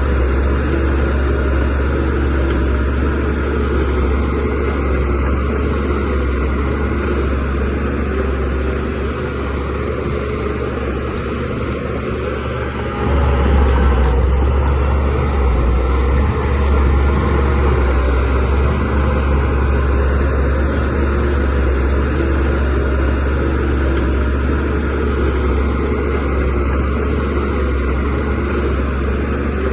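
Shantui DH17C3Pro bulldozer's diesel engine running steadily at work, a continuous low drone that grows louder about thirteen seconds in.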